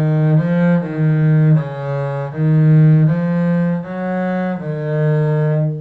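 A cello bowing a slow eight-note phrase of an F-sharp major exercise, one held note after another, starting on D sharp and coming back to D sharp at the end.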